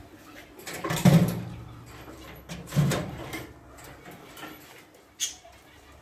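Caged birds calling, with two louder short calls about a second in and just before three seconds, and a sharp click a little after five seconds.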